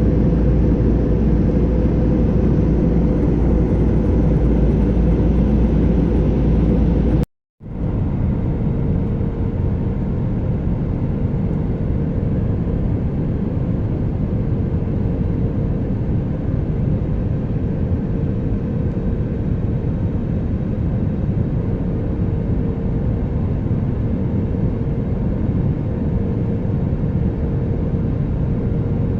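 Steady rumble of an airliner's engines and airflow heard inside the passenger cabin, with a faint steady hum above it. It cuts out for a moment about seven seconds in, then carries on.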